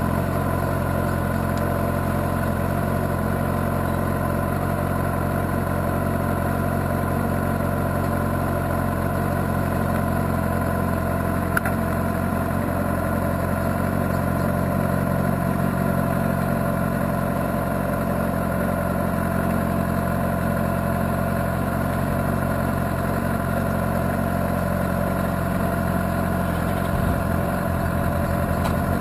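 Kawasaki ZX-6R's inline-four engine idling steadily, its pitch unchanging.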